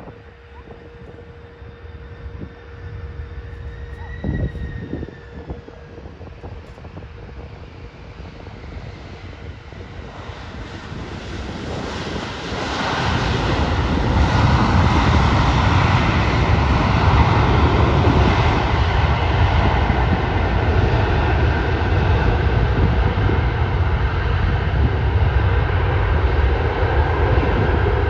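Jet airliner engines, the rumble building from about ten seconds in and then holding loud and steady.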